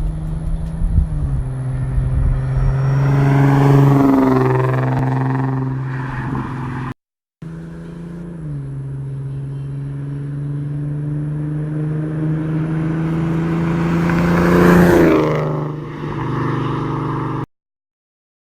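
Ford Mustang 3.7-litre V6 running through BBK headers, catless pipes, an X-pipe, resonators and a straight pipe to 4-inch tips, idling and revved up and back down twice, about three seconds in and again near fifteen seconds. The sound breaks off briefly about seven seconds in and stops a second before the end.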